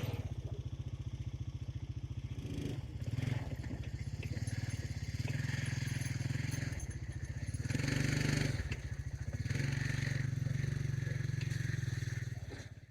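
Small engine running steadily, with several short louder stretches. The sound is typical of a chainsaw at work, and it cuts off abruptly at the end.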